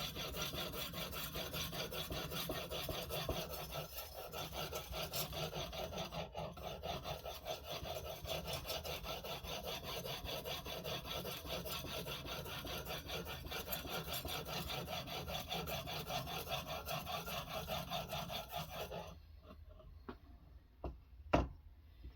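Knife blade being sharpened on a stone in a guided sharpening system: fast, steady back-and-forth rasping strokes of abrasive on steel. The stroking stops about nineteen seconds in and is followed by a few light knocks and one sharp click as the stone or knife is handled.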